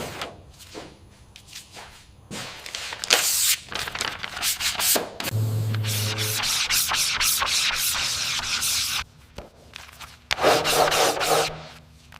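Sanding on the car's bodywork: a long stretch of rasping in the middle, with a low steady hum underneath. It follows a run of scattered knocks and clicks and comes back in a shorter burst near the end.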